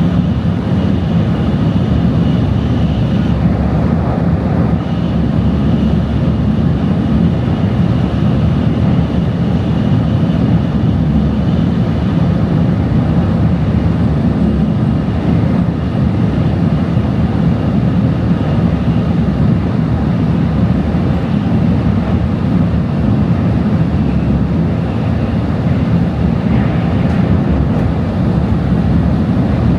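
Tokaido Shinkansen train running at speed, heard from inside the passenger cabin: a steady low rumble that holds even throughout.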